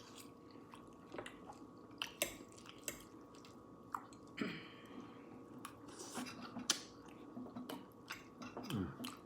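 Close-miked chewing and mouth sounds: soft, wet smacks and clicks scattered through, with a short hiss-like rustle about halfway.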